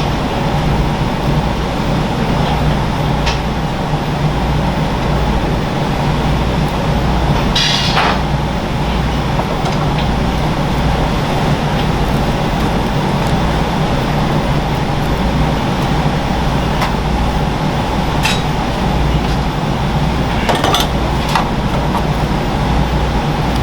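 Steady low hum of kitchen machinery with a few short clicks and clinks of utensils, the loudest a little under eight seconds in and again around twenty-one seconds.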